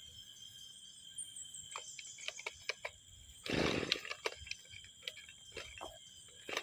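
A run of sharp clicks and knocks, with one short loud rasping burst about halfway through, over the steady high chirring of insects.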